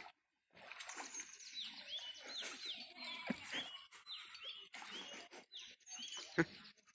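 Small birds chirping: many short notes that sweep down in pitch, a few a second. A couple of sharp knocks cut in, the loudest about six seconds in.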